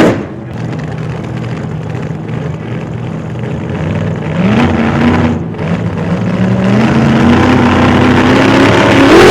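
Dodge Ram 1500 Hemi V8 pickup accelerating under load. The engine's pitch climbs about four and a half seconds in, steadies, then climbs again and grows louder near the end. A brief loud burst comes right at the start.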